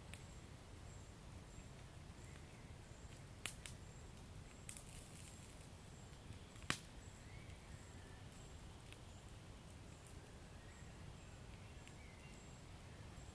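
Wood fire burning quietly with a steady low rumble and sparse crackles: a sharp pop a few seconds in, a brief patch of small crackles, and the loudest pop about halfway through.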